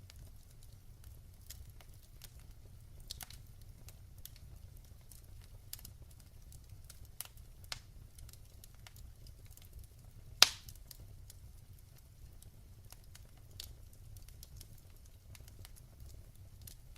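Wood fire in a fireplace crackling: scattered sharp pops and snaps over a low steady rumble, with one louder pop about ten and a half seconds in.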